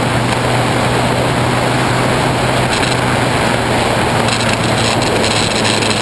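Honda CBF600S inline-four engine running at steady cruising revs under a dense rushing noise, heard through a GoPro waterproof housing that muffles the engine and adds the noise.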